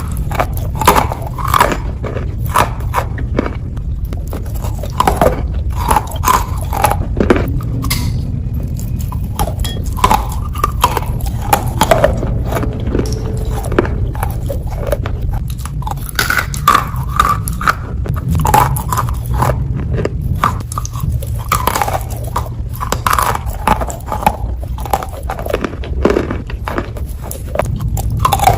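Close-miked biting and chewing of wet Ural clay: irregular crunches and clicks, several a second, over a steady low background hum.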